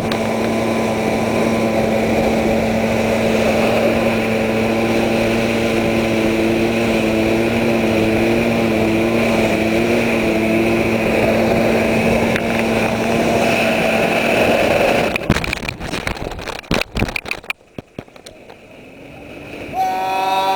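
Outboard engine of a Thundercat inflatable racing boat running hard at a steady pitch. About fifteen seconds in, the sound breaks up into irregular crackles and knocks, then drops away almost entirely for a moment before rising again.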